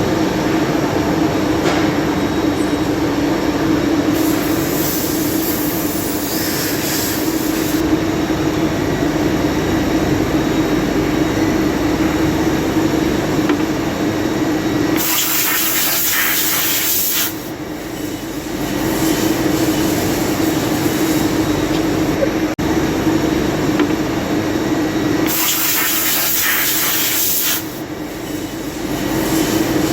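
CNC lathe running with a steady hum, broken three times, about ten seconds apart, by a few seconds of hissing spray, each followed by a brief drop in the machine noise.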